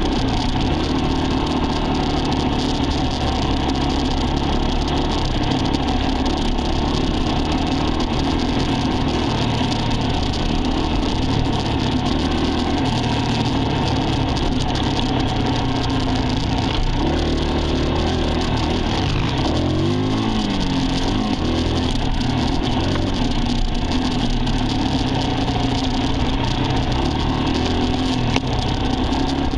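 Dirt bike engine running under way, its note shifting as the throttle is worked. The pitch dips and climbs again about two-thirds of the way through.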